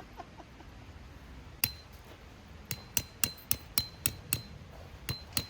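A hammer striking a metal tent peg: one blow, then after a pause an uneven run of about nine sharp blows, each with a short ringing ping.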